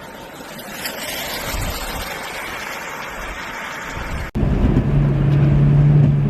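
Rushing road-and-wind noise, then an abrupt cut about four seconds in to a vehicle engine running with a steady low hum.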